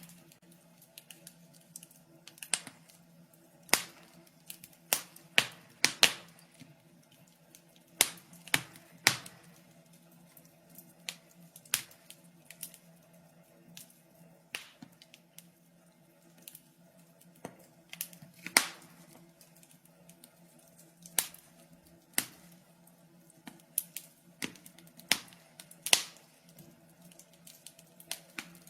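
Wood fire crackling in a fireplace: irregular sharp pops and snaps, a louder one every second or two, among fainter ticks.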